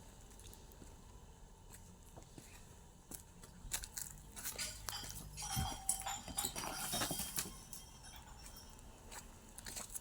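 An animal's call or calls, loudest between about four and seven and a half seconds in, amid scattered clicks and knocks.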